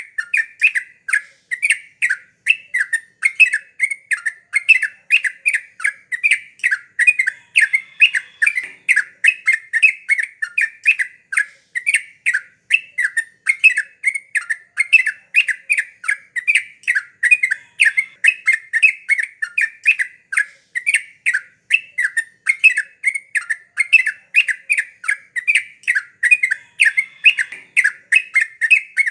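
Yellow-vented bulbul (trucukan) singing in a continuous, lively run of short bubbling notes, several a second, without a pause.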